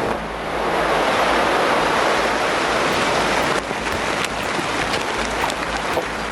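A building coming down in a demolition: a sustained, dense rush of noise with scattered sharp cracks of breaking debris, easing off near the end.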